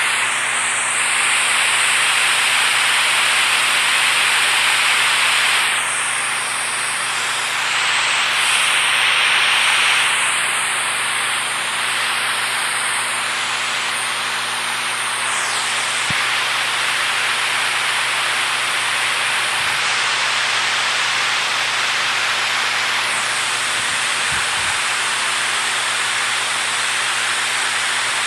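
Water rushing steadily in a loud, even hiss whose tone shifts slightly a few times.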